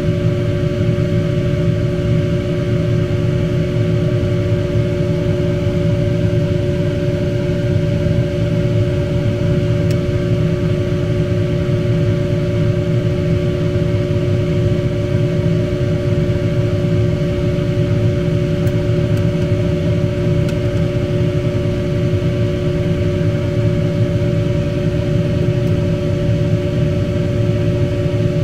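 A steady mechanical hum and whir, unchanging throughout, with a few held tones over it.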